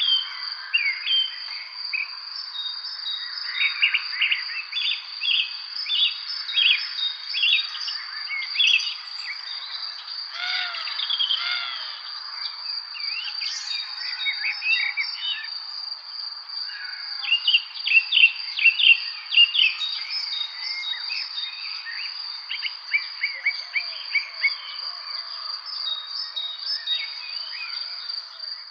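Songbirds chirping and singing in many short, overlapping phrases over a steady high insect trill.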